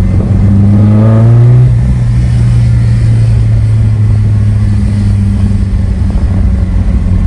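Honda S2000's four-cylinder engine pulling, its revs rising for about a second and a half, then dropping and running steadily. The owner takes this for the throttle body being held slightly open by its cable, about 6% throttle, pushing the car along.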